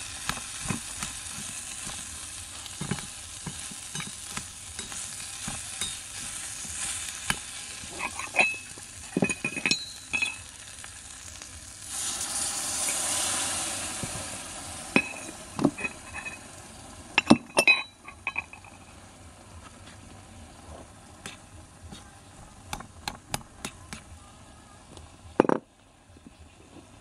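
Food sizzling in a miniature wok while metal utensils stir and scrape it, with sharp clinks of metal on the pan. About twelve seconds in the sizzle swells for a couple of seconds, and a loud knock comes near the end.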